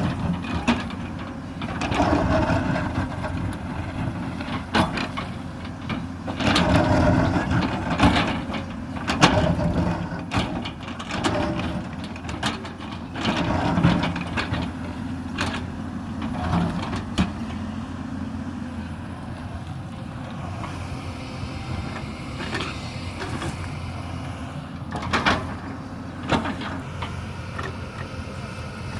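Hyundai 220 crawler excavator's diesel engine working under load, swelling and easing several times as the machine digs, with repeated clunks and knocks from the bucket and boom biting into a hillside.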